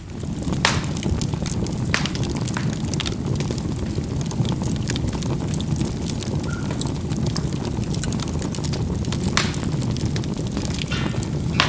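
Charcoal burning in a fireplace: a steady low rush of fire with sharp crackles and pops as the charcoal bursts, a few louder pops standing out among many faint ticks.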